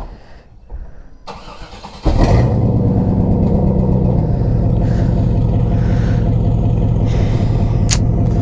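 A truck's V8 engine catches about two seconds in, its pitch settling over the next couple of seconds, then runs steadily and loudly.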